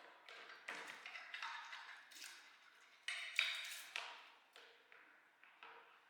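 A run of sharp taps and knocks on hard objects, about a dozen in six seconds, each with a short scraping tail, the loudest about three and a half seconds in.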